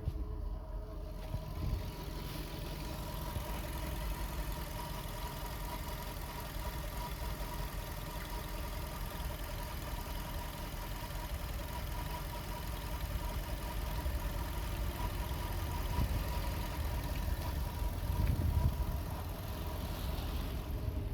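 Skoda Octavia II's 1.6 BSE four-cylinder petrol engine idling steadily.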